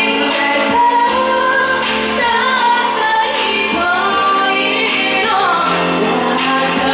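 A woman singing a slow, gentle song live, with instrumental accompaniment underneath.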